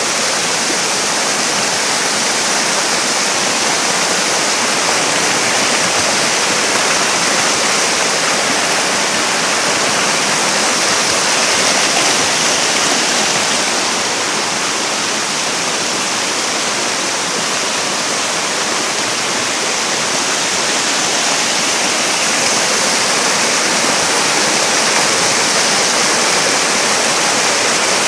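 Mountain valley stream with water rushing in a steady, loud hiss.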